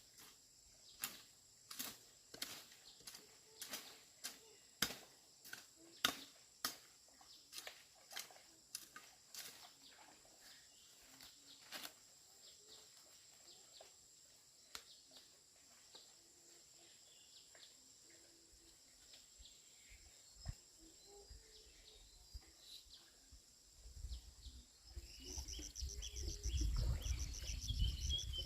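A series of sharp knocks, about two a second, thinning out after about twelve seconds, over a steady high tone. Near the end a louder low rumble comes in.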